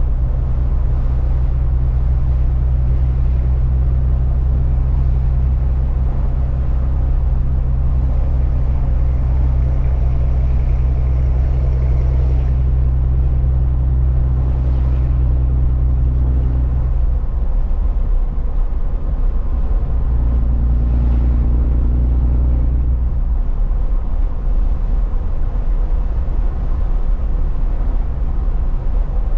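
A truck's engine running at a steady low drone over road noise while driving. About halfway through, the low note falls away, comes back for a few seconds, then falls away again.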